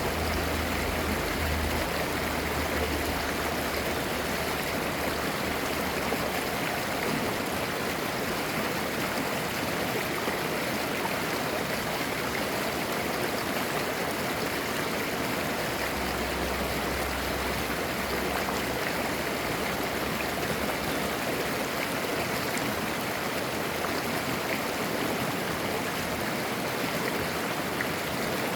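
Mountain valley stream flowing over rocks, a steady rushing and babbling of clear water.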